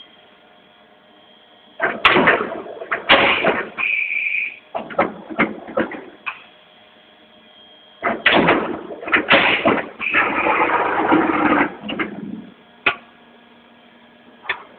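Matsuura MC-510V vertical machining centre working: several loud, noisy mechanical bursts separated by quieter stretches of hum, then two sharp clicks near the end.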